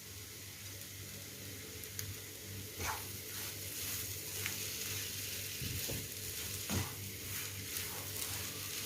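Hot sausage masala (chicken sausage roast) sizzling softly with a steady hiss, with a few light knocks about three, six and seven seconds in.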